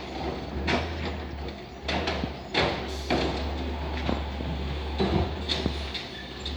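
Garbage truck's automated arm lifting and dumping a wheeled bin: a steady low engine drone under a run of clanks and bangs as the cart is tipped and shaken into the hopper.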